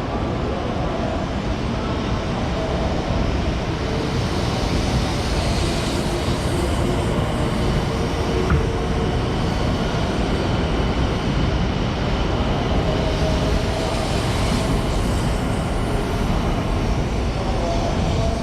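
Shinkansen bullet train running past the platform: a steady rumble and rush of wheels and air, with faint whining tones. It grows a little louder about three seconds in.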